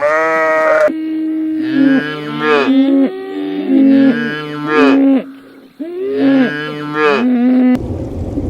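Cattle mooing: a run of about four long calls that sometimes overlap. Near the end the calls stop abruptly and a steady rushing noise takes over.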